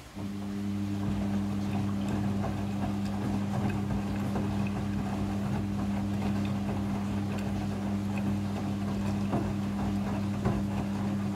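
Midea front-loading washing machine running a cycle stage: a steady hum that switches on abruptly, holds for about eleven seconds with irregular clicking and rustling noise over it, then cuts off.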